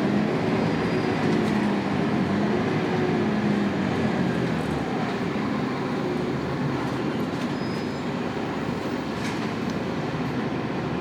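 Onboard sound of a Scania K280UB bus under way: its rear-mounted 9-litre five-cylinder turbo diesel running with road rumble. The engine note is strongest in the first few seconds, then eases off and the sound gets a little quieter.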